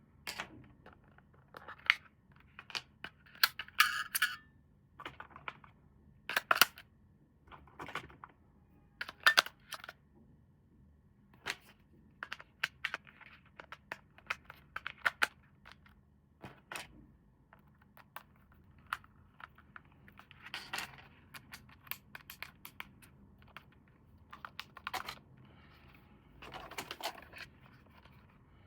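Handling and opening of plastic and cardboard toy packaging: irregular clicks, taps and crinkling, with a short tearing sound about four seconds in.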